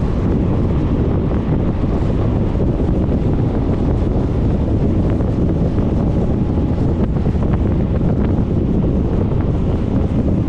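Steady wind rush buffeting the microphone of a camera mounted on a moving Suzuki Burgman 400 scooter, a dense low noise that hides most other road sound.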